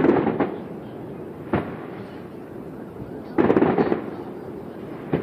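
Aerial fireworks shells bursting: a loud boom right at the start, a single sharp bang about a second and a half in, and a longer, heavier rumbling burst about three and a half seconds in.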